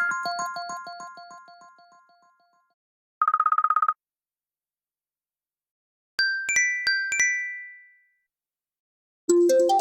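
A run of iPhone ringtones and alert tones. A repeating melodic pattern fades out over the first two seconds. A short buzzy tone comes about three seconds in, then two quick pairs of bright chime notes after six seconds. A new, fuller tune starts near the end.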